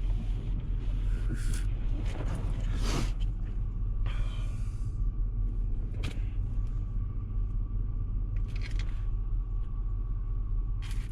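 Engine of a four-wheel-drive snow-plow vehicle running steadily with a low drone, heard from inside the cab, with scattered knocks and clicks. A faint steady whine comes in about halfway through.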